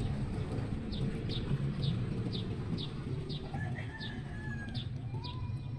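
Background birdsong: a bird repeats a short high chirp about twice a second, with a few other whistled bird calls in the second half, over a steady low hum.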